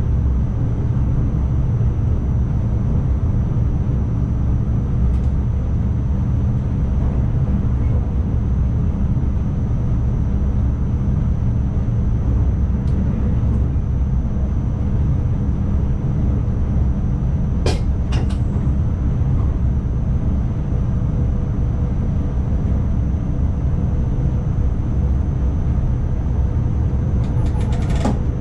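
NS ICMm electric multiple unit under way, heard in the driver's cab: a steady low rumble of the running train with a thin, high, steady whine over it. There is a pair of sharp clicks about two-thirds of the way in and a quick run of clicks near the end.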